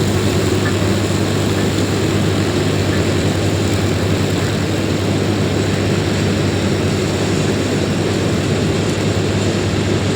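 Jet airliner engines running steadily as the aircraft taxis, a loud, even noise with a strong low hum.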